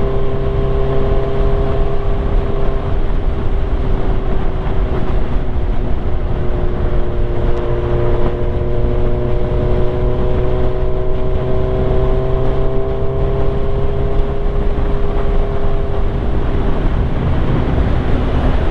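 Yamaha R1 sport bike's inline-four engine running at a steady cruise, its note held nearly even and drifting only slightly in pitch, over a rush of road and wind noise.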